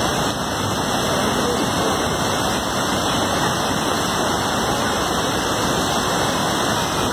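Steady rushing noise of water, with no distinct events.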